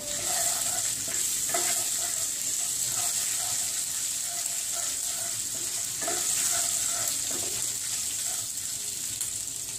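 Chopped ginger and ajwain seeds sizzling in hot olive oil in a non-stick pan, with a wooden spatula stirring and scraping across the pan in repeated strokes.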